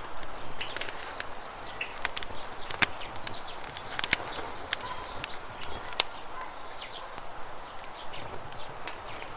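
Campfire crackling with sharp, irregular pops over the steady rush of a river, with a few short bird chirps.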